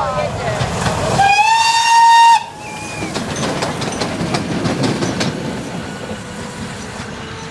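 A steam locomotive running past, its rumble and wheel clatter broken about a second in by one steady whistle blast, the loudest sound here, which lasts about a second and cuts off sharply.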